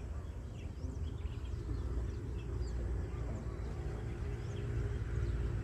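Scattered bird chirps over a steady low rumble, with a faint steady hum joining about three seconds in.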